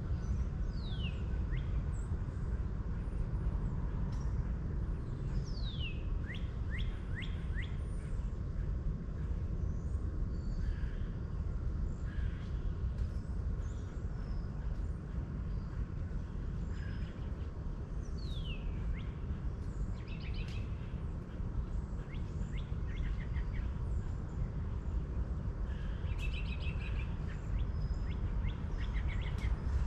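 Birds calling: several sharp whistles gliding down in pitch, some followed by a quick run of short notes, and scattered chirps, over a steady low rumble.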